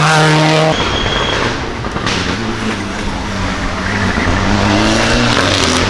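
Rally car engines running hard at high revs on a special stage, with an abrupt switch to a different engine sound about a second in. Near the end an engine climbs in pitch as it accelerates.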